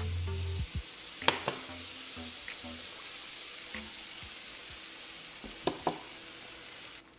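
Shredded cheddar cheese sizzling in a granite-coated nonstick frying pan heated to about 500 °F: a steady hiss, with a couple of sharp clicks about a second in and again near the end. The sizzle cuts off abruptly just before the end.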